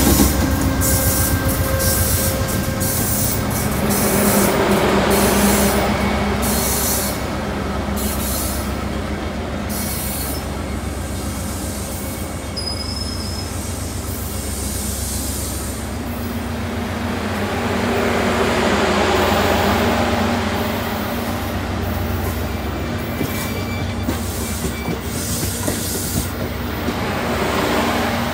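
A passenger train rolling slowly past at close range, steel wheels rumbling on the rails. The sound swells and eases three times as the cars pass, and a brief thin wheel squeal comes about twelve seconds in.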